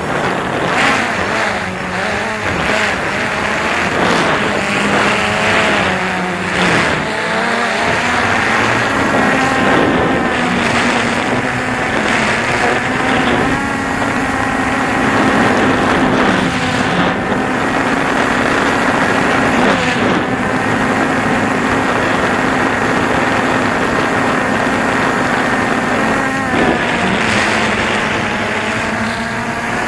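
DJI Phantom 2 quadcopter's motors and propellers buzzing steadily, their pitch wavering up and down as the motors change speed, over a haze of wind noise.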